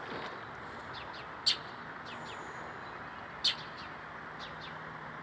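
A bird giving short, sharp chirps while it harasses a cat: two louder ones about a second and a half and three and a half seconds in, with fainter ones between, over a steady outdoor hiss.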